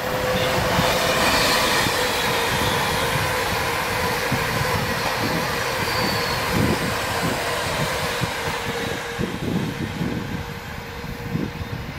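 Express passenger train passing through the station at speed without stopping: a loud, steady rush of wheels on rail and air that eases off near the end as it draws away.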